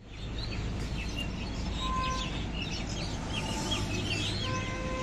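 Birds chirping in quick, short, twittering calls over a steady low rumble, with a brief steady tone now and then.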